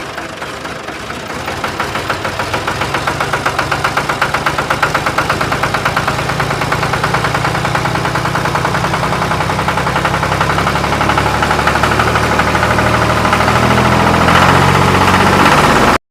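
Tractor engine running with a steady, rhythmic chug. It grows louder over the first few seconds, then holds, and cuts off abruptly at the end.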